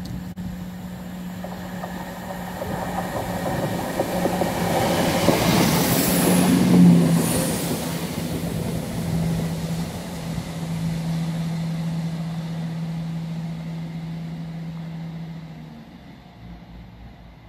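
A CrossCountry diesel train passes close by. A steady engine hum and a rush of wheel and air noise build to their loudest about seven seconds in as it goes by, then fade away as it leaves.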